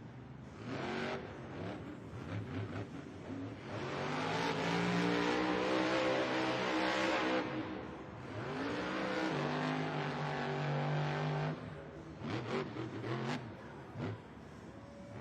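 Monster truck's supercharged V8 engine revving hard under throttle. It climbs and falls in pitch, holds high through a long stretch in the middle, and gives short throttle blips near the end.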